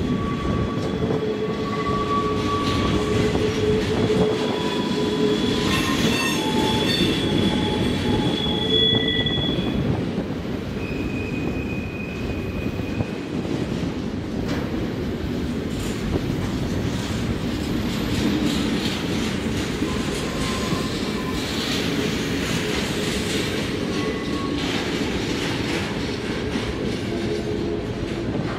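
Canadian National double-stack container freight train rolling through the tight cloverleaf curve: a steady rumble of wheels on rail, with high wheel-flange squeal tones that come and go, most of them in the first ten seconds.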